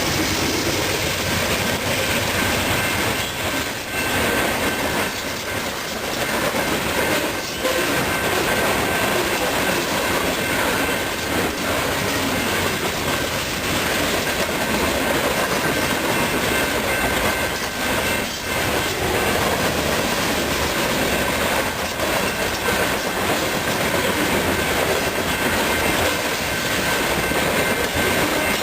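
Freight cars of a BNSF ballast train rolling past, steel wheels clacking over the rail joints, with a thin steady wheel squeal over the rumble.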